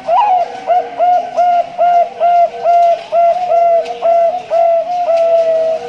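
Male Bangkok-line zebra dove (perkutut) cooing: a loud, rapid series of about a dozen short, clear coo notes, roughly two a second, ending on a longer held note. A fainter, lower dove coo can be heard behind it.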